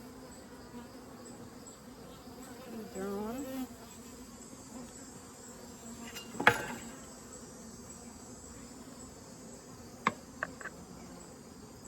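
Honeybees buzzing steadily around an open hive during a frame inspection, with a sharp knock about halfway through and a few short clicks near the end.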